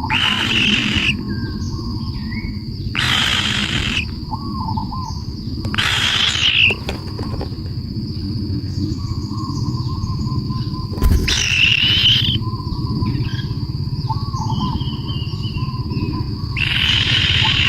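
Birds calling: harsh, rasping calls about a second long come every few seconds, with small whistled chirps in between, over a steady high insect drone and a low rumble.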